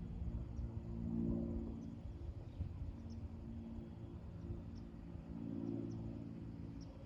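Outdoor ambience dominated by a steady low droning hum, like a distant engine, that swells slightly twice. Faint, short, high chirps come every second or so.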